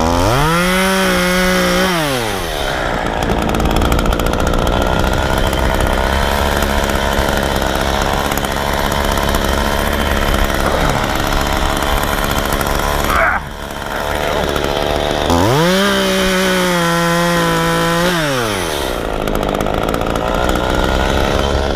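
Efco MTT 3600 top-handle two-stroke chainsaw revving up to full throttle, holding and dropping back twice, about a second in and again after about fifteen seconds, with the engine running steadily at a lower pitch in between.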